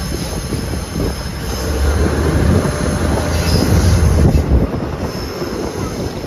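A passenger train running along the rails: a dense wheel-and-track rumble with a thin high whine above it. The rumble swells through the middle and eases off a little after four and a half seconds.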